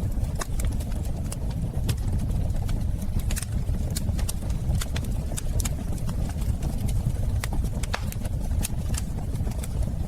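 Wood fire burning in a fireplace: a steady low roar of the flames with irregular sharp crackles and pops, about two a second.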